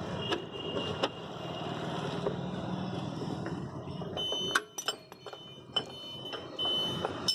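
A vehicle engine running steadily, fading out about four and a half seconds in, with sharp metallic clinks of a spanner and scooter parts, a cluster of them just after the engine fades.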